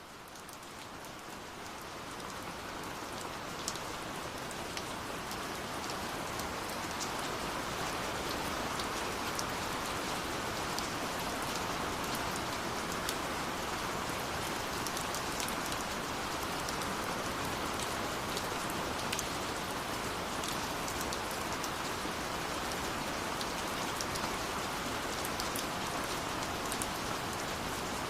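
Steady rush of falling water with scattered sharp crackles and pops of a wood fire layered over it. The sound fades up over the first several seconds, then holds steady.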